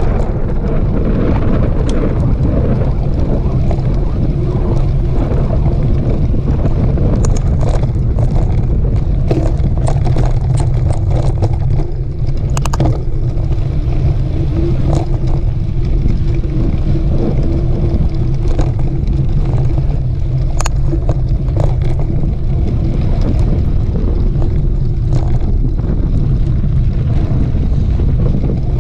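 Steady wind buffeting on the microphone with a low rumble, as on a camera carried on a moving mountain bike, with scattered sharp clicks and rattles.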